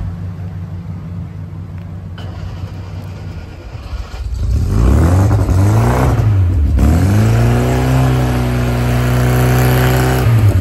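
Car engine idling, then revved about four seconds in, falling back, and revved again and held at high revs for a few seconds before dropping off near the end.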